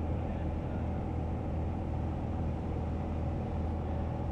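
Light propeller airplane's piston engine and propeller droning steadily in cruise, heard from inside the cabin.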